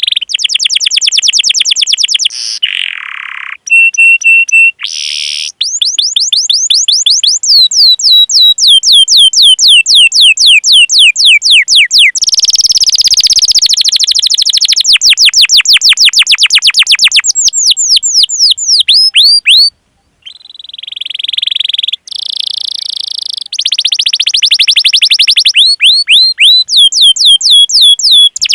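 Domestic canary singing a long song of rapid repeated chirps and rolling trills, high-pitched and loud, breaking off briefly about twenty seconds in.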